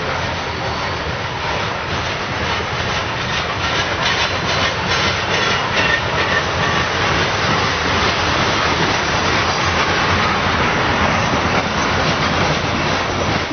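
Freight train cars rolling past, wheels clattering over the rail joints in a steady run of clicks and rumble.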